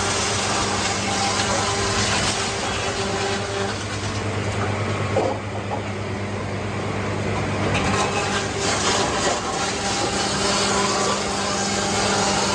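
Sawmill machinery running steadily: a constant motor hum under a broad mechanical hiss that eases off in the middle and picks up again about eight seconds in.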